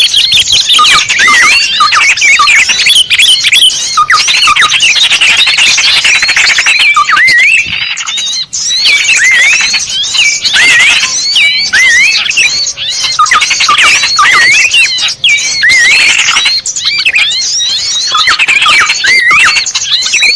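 Many small birds chirping and calling at once in a dense, unbroken chorus of quick rising and falling chirps. It is a bird-lure (pikat) recording, meant to draw small birds in.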